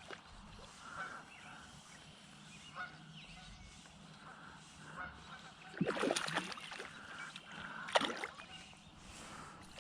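Geese honking faintly on and off, with two louder sudden sounds about six and eight seconds in.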